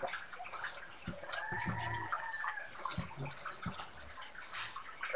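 Small birds chirping: a steady run of short, high chirps, two or three a second.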